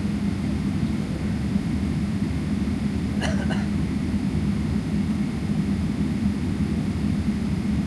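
Steady cabin noise inside a Boeing 777-300ER: a constant low rumble from its GE90 jet engines and airflow, with a held low drone. A brief pitched sound cuts in about three seconds in.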